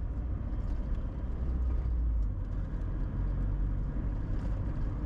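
Steady low rumble of a car's engine and tyres heard from inside the cabin while driving along.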